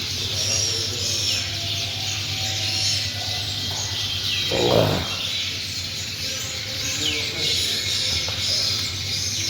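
A chorus of caged finches and canaries chirping and twittering, many short overlapping calls, over a steady low hum. A brief louder noise comes about halfway through.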